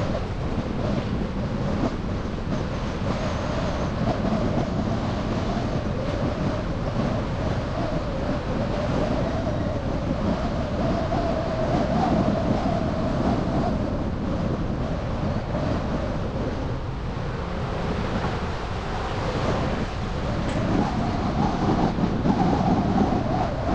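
Car driving through city traffic: steady tyre and road noise with a wavering hum running through it.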